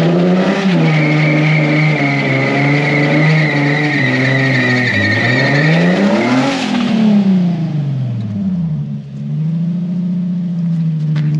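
Nissan 350Z's V6 held at high revs through a drift, with the tires squealing during the first half. The revs dip, climb to a peak about six and a half seconds in, fall away, then hold steady and high again near the end.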